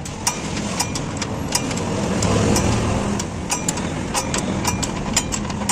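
A motor vehicle's engine runs steadily and swells louder for a moment about two seconds in, with many sharp, irregular clicks and taps over it.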